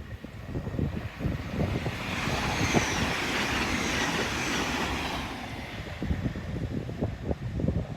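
A train passing at speed over the level crossing, its rushing noise swelling and fading over about three seconds, with wind buffeting the microphone.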